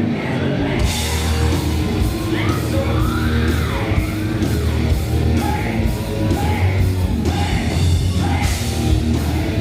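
A tribute band playing an arena rock song live, with a singer's voice sliding up and down over loud drums and band.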